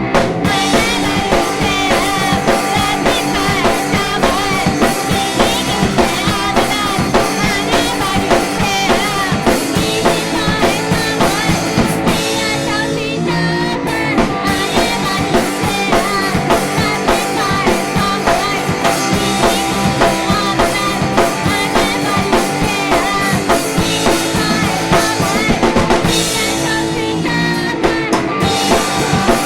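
Three-piece indie-pop band playing live, with a steady drum-kit beat under the song.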